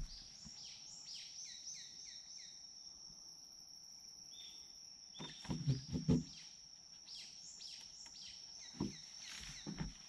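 A songbird singing runs of quick downward-slurred chirps over a steady high-pitched hum. Several dull knocks and rustles of camping gear being handled on a wooden deck come about halfway through and again near the end; they are the loudest sounds.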